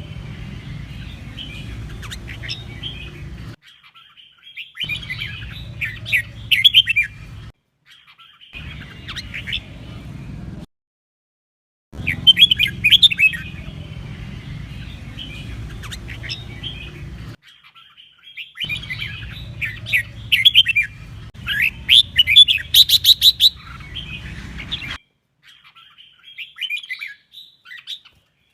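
Red-whiskered bulbul singing: short bursts of quick, chattering whistled phrases, repeated every second or two. The song comes in spliced sections over a low background hum, with abrupt cuts to silence between them.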